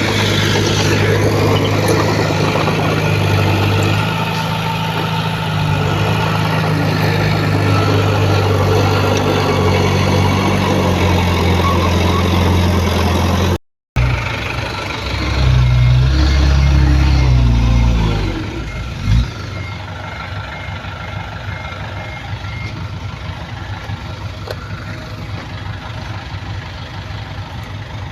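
Diesel engines of heavy earthmoving equipment running steadily, with a brief cut about halfway. After the cut an engine runs harder and its pitch shifts, a single thump sounds, and a faint reversing beeper repeats for several seconds. The engine then settles to a quieter steady run.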